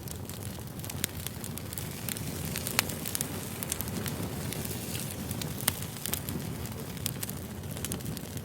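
Campfire burning steadily, with frequent crackles and sharp pops over a low rushing hiss; two pops stand out, around three and six seconds in.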